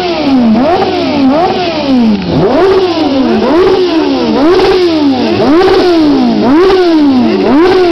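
Yamaha Fazer inline-four motorcycle engine with an aftermarket silencer, revved hard on the stand in repeated throttle blips up to the rev limiter. The pitch rises fast and falls back about once a second.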